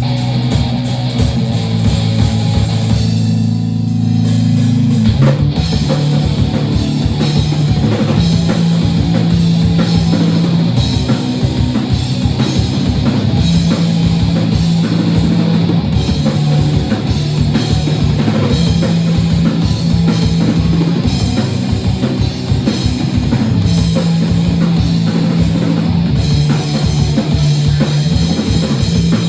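Rock band playing live: held low guitar and bass notes for about the first five seconds, then the drum kit comes in with a fast, driving beat under distorted guitar and bass.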